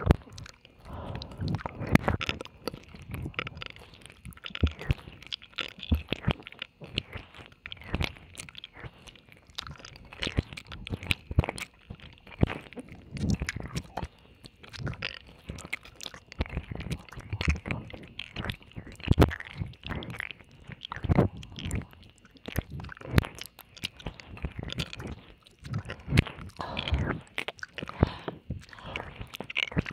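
Close-up wet mouth sounds of ear licking and kissing: irregular tongue clicks, smacks and slurps in both ears.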